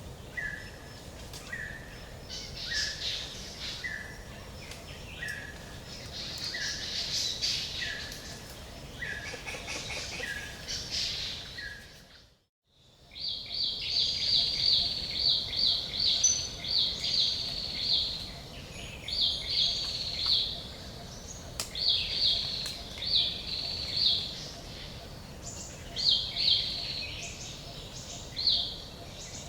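Forest ambience of songbirds calling over a steady background hiss. For the first half, one bird repeats a short call about once a second among higher chirps; after a brief dropout near the middle, runs of rapid high-pitched chirps come in bursts.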